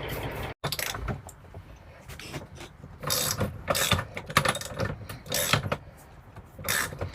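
Metal tools and parts clicking and clattering in short, irregular bursts as the horn assembly is lifted off a semi truck's steering wheel.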